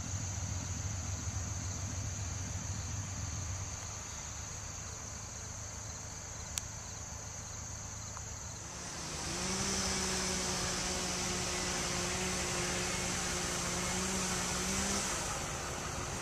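Steady outdoor hum with a high, even insect-like drone. About nine seconds in, a motor vehicle's engine comes in, runs at a steady pitch for several seconds, then rises again near the end.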